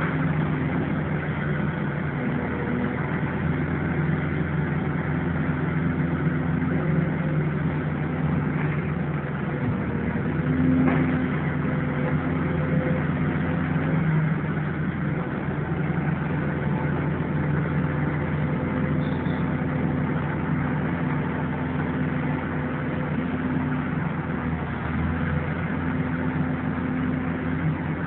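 Engine of a demolition machine running steadily, its pitch shifting a little now and then, with a single short knock about eleven seconds in.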